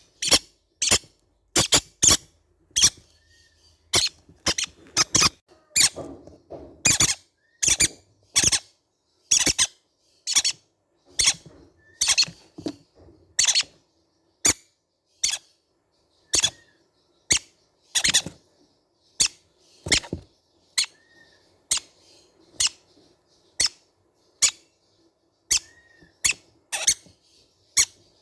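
Baby green-cheeked conures giving short, high-pitched squeaky calls over and over, about one or two a second with brief gaps.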